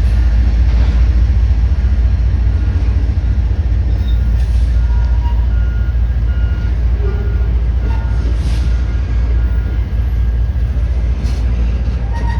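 Loud, steady, deep rumble of diesel locomotives running close by. From about a third of the way in, a high electronic beep repeats about twice a second for several seconds, like a reversing alarm.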